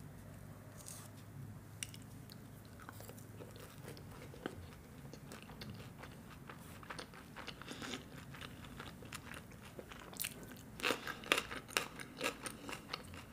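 Close-up chewing of a mouthful of makki ki roti (corn flatbread) with sarson ka saag: soft, sparse wet mouth clicks at first, growing into a denser run of louder crisp clicks and smacks over the last few seconds.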